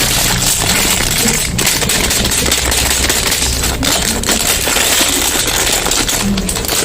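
Soap packaging crinkling and rattling as it is handled and unwrapped: a dense, continuous crackle of rapid clicks.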